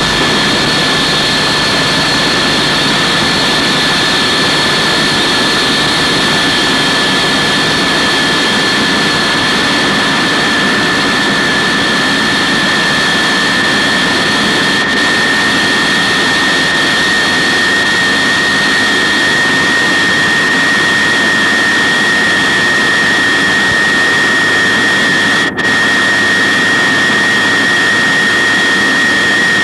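Jet engine running steadily, a loud roar with a high turbine whine held at nearly one pitch. The sound cuts out for an instant about 25 seconds in.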